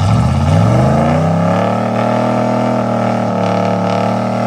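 Off-road truck engine revving up over about the first second and a half, then held steady at high revs.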